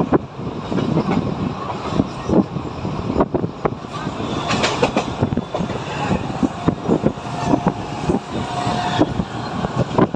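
Mumbai suburban local train running, with many irregular clacks and knocks of the wheels and carriage over the track. A thin steady tone sounds for a couple of seconds in the second half.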